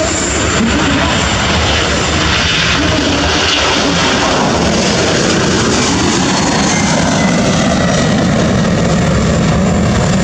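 Boeing 767's twin turbofan jet engines at takeoff power: a loud, steady roar.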